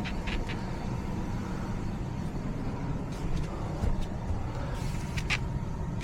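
Residential central air-conditioning system running with a steady low hum and no strange noise, with a few light clicks over it.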